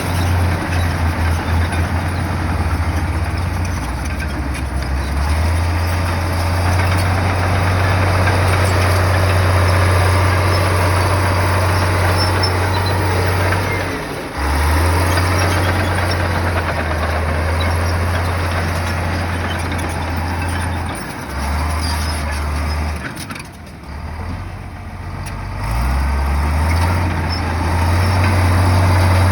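Komatsu bulldozer's diesel engine working under load. Its steady low note drops briefly about halfway through, eases off again about three quarters in, then builds back up near the end.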